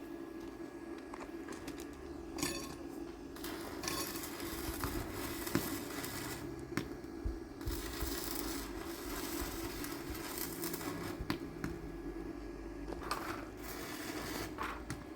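Metal work sounds: irregular scraping and clinking of metal, with sharp clicks, over a steady low hum.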